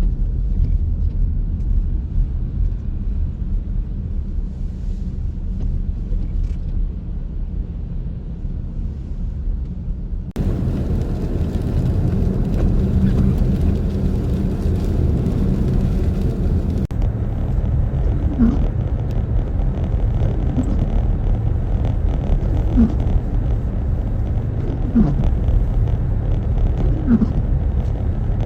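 Loud, low rumbling wind noise from high blizzard winds on the microphone, mixed with vehicle noise. The sound changes abruptly about ten and seventeen seconds in.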